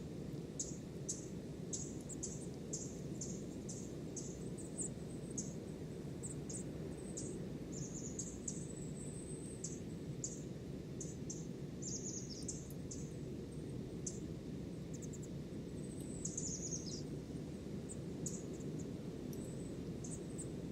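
Small songbirds calling in many short, very high-pitched chirps with a few brief trills, over a steady low rushing background.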